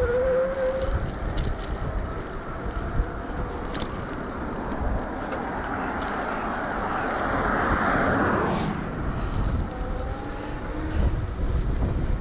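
Wind buffeting the microphone of a camera on a moving e-bike, with a steady low rumble. A rushing swell builds in the middle and peaks about eight seconds in before fading.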